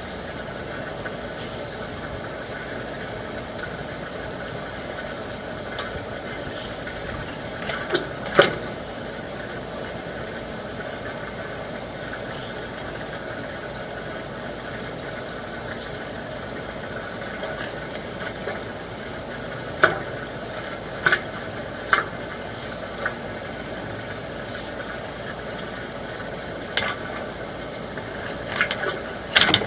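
A steady mechanical drone like a motor running, broken by a few sharp clicks or knocks about 8 seconds in, several more around 20 to 23 seconds in, and a cluster near the end.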